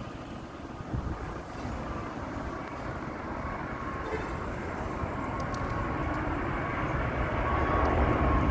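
Boeing 777 airliner on approach to land, its jet engines rumbling and growing steadily louder as it nears, with a faint steady whine.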